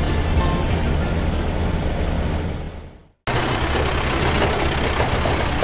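Heavy vehicle engine running steadily with a low rumble, fading out about three seconds in, then after a brief silence a similar engine sound starts again abruptly.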